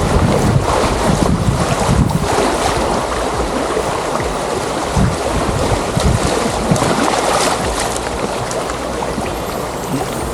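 Rushing river water over rapids, a steady loud wash, with wind buffeting the microphone in uneven low gusts.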